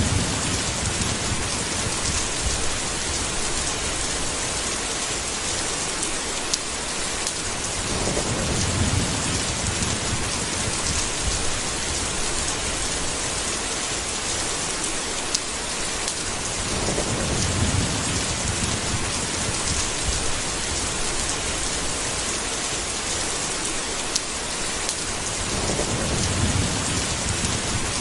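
Steady heavy rain, with low rolls of thunder rumbling three times, about every eight to nine seconds, and a few sharp clicks.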